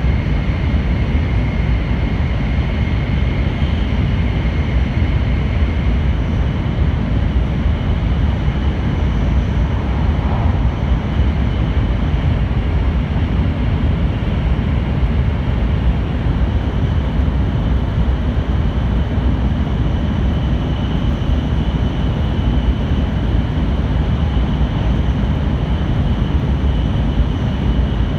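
Steady running noise inside a passenger car of a JR Kyushu N700-series 8000 Shinkansen travelling along the line: an even low rumble from the wheels and track, with a faint steady high whine on top.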